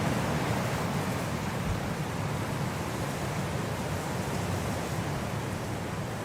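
Steady winter wind blowing, a dense even rush strongest in the low range, easing off slightly over the few seconds.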